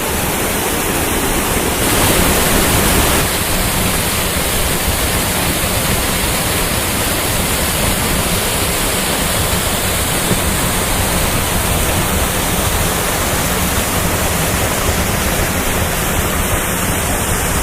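Waterfall pouring close by: a loud, steady rush of falling water, a little louder for a moment about two seconds in.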